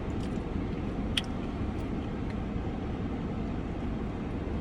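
Steady low rumble of a car idling, heard from inside the cabin, with a single sharp click about a second in.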